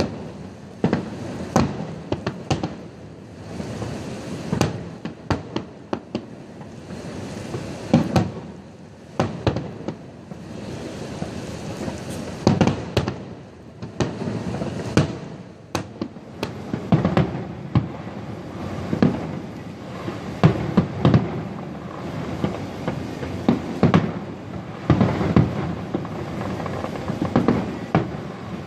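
Aerial fireworks exploding in a continuous barrage of sharp bangs with rumble between them, the bangs coming thicker and faster in the second half.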